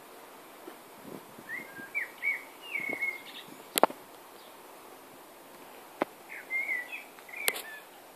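A bird chirping in two runs of short, quick phrases, with three sharp clicks in between, the loudest about four seconds in.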